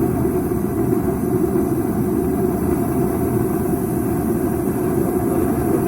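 Gas-fired heat cannon running with its open flame, a steady low rushing noise with a faint hum.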